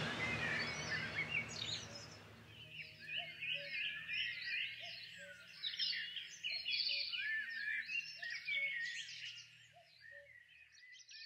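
Background music fading out over the first couple of seconds, giving way to a chorus of several songbirds singing and chirping together, with a short lower note repeating about once a second underneath; the chorus fades out near the end.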